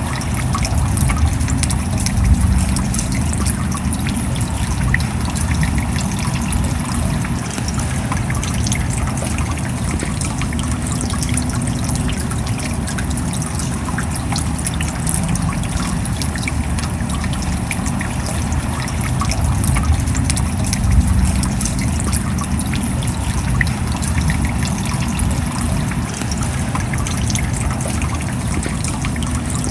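Steady rain falling, with a dense patter of drops and a low rumble underneath.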